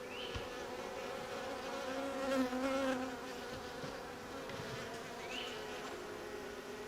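Honey bees buzzing in a swarm of wavering tones, one growing louder as it passes close around two to three seconds in. Two short rising chirps come through, one near the start and one about five seconds in.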